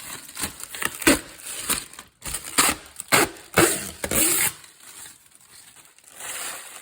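Protective plastic film crackling as it is peeled off a new fridge, in irregular bursts that ease off after about four and a half seconds into a softer hiss near the end.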